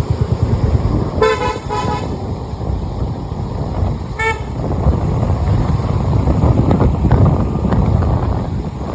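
Vehicle horn tooting: two short honks in quick succession a little over a second in, and one more brief toot about four seconds in, over a steady low rumble of road and wind noise.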